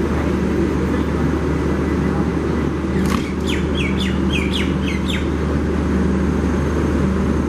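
A steady low machine hum from a standing passenger train. About three seconds in, a bird gives a quick series of short chirps lasting about two seconds.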